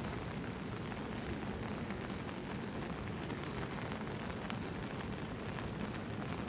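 Steady rain falling, with faint scattered drops tapping.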